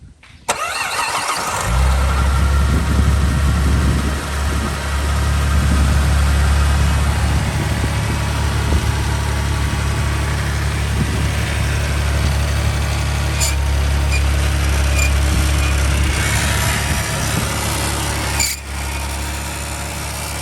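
Saab 9-3's 2.8-litre V6 starting suddenly and catching about a second and a half in, then running steadily. Over the engine runs a noise from the accessory belt's tensioner pulley, which the crew take for a seizing tensioner pulley.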